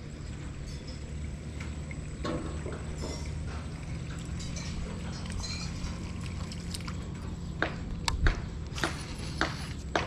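Water sloshing and dripping around a kayak, with a few sharp splashes or knocks near the end, the loudest about eight seconds in, over a steady low hum.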